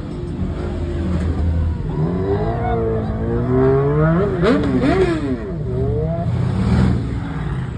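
Car engine being revved hard several times, its pitch climbing and dropping repeatedly over a steady low rumble.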